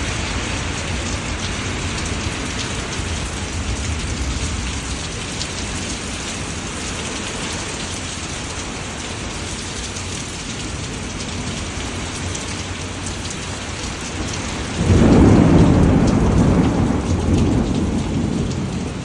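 Steady rain falling. About fifteen seconds in, a loud rumble of thunder breaks in suddenly and slowly dies away.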